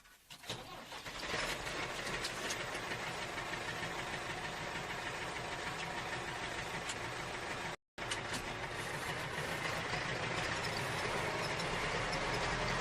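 A small motor or machine running steadily with a dense mechanical buzz. It cuts out abruptly for a moment a little past halfway, then carries on.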